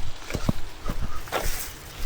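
Quick run of sharp taps and clicks, then a brief rustling swish about a second and a half in, over a low rumble.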